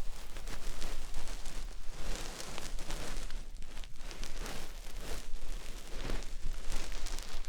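Ear-cleaning sounds close up on a binaural dummy-head microphone: an ear pick or bonten fluff scraping and rustling in the ear in a run of repeated short strokes.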